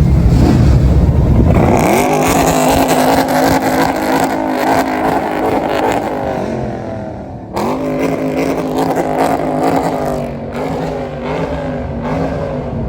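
Car engine revving hard. A deep rumble climbs to high revs and is held there, cuts briefly about halfway through, then revs up and is held high again.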